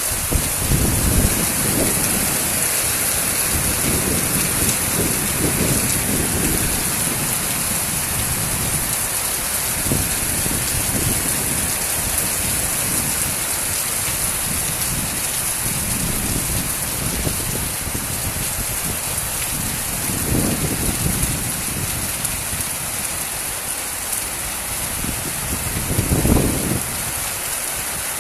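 Steady rain falling, a dense even hiss, with low rumbles that come and go, the strongest near the end.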